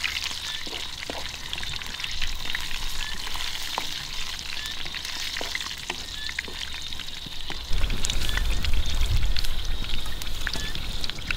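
Giant water bugs deep-frying in hot oil in a metal wok, a steady sizzle full of small crackles, with a wooden spatula stirring them. A low rumble comes in about eight seconds in and is the loudest sound from then on.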